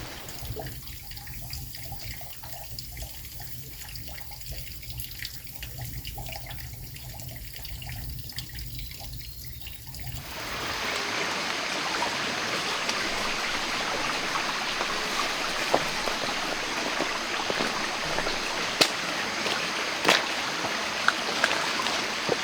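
Water running over rocks in a stream, growing louder and fuller about halfway through, with a few scattered sharp clicks.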